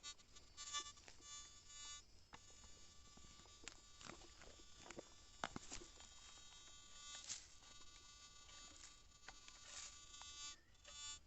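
A handheld metal-detecting pinpointer buzzing continuously while it is held to mineralised soil, which it does not handle properly. The buzz breaks off briefly about two seconds in and again near the end, with scattered clicks and scrapes from digging.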